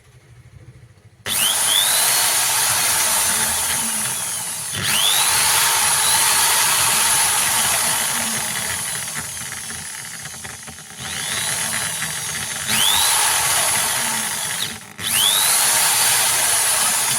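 Electric drill run at full speed, started five times: each start brings a rising whine as the motor spins up, followed by a loud, noisy run that slowly fades. It is faint for about the first second before the first start.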